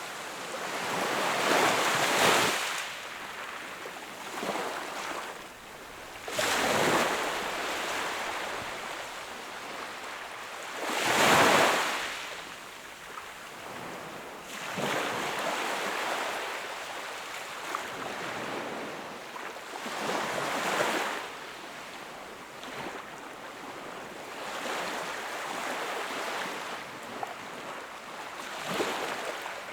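Small ocean waves washing onto the shore, swelling and falling away every few seconds, the loudest surge about eleven seconds in, with small clicks of water in between.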